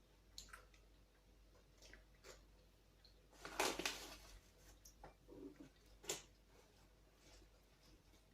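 Quiet eating sounds: scattered small clicks, a louder noisy burst of about a second near the middle, and one more sharp click soon after.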